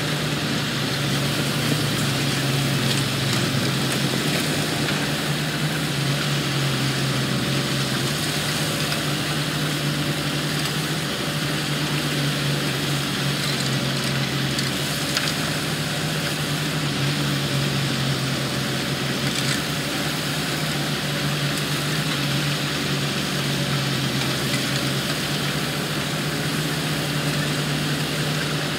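A diesel engine of heavy construction machinery running steadily at one even speed, a constant low drone with no breaks or revving.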